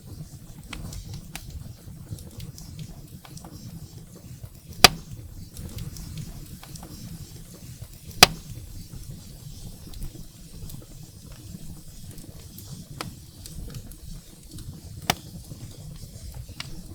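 Wood fire burning in a fireplace: a steady low rumble of flames with irregular small crackles, and two loud sharp pops of the burning firewood about five and eight seconds in.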